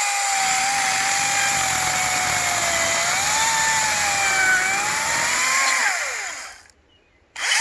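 Echo DCS-2500T 56-volt battery chainsaw running with a steady electric whine as it cuts into a rotten log, the pitch sagging and rising with the load. About six seconds in it winds down and stops, then starts again just before the end.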